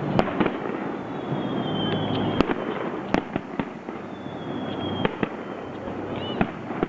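Aerial fireworks display: several sharp bangs of shells bursting over a dense crackling, with whistling tones that slide slightly down in pitch.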